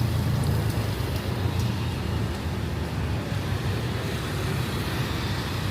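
Steady street traffic noise: the continuous low hum of passing vehicle engines.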